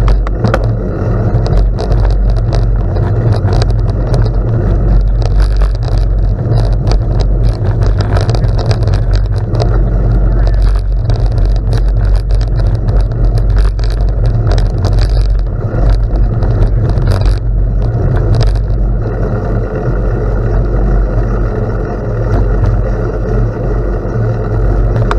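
Wind buffeting the microphone of a camera riding along on a bicycle, a loud, steady rumble, with the tyres crunching and rattling over gravel in frequent short clicks.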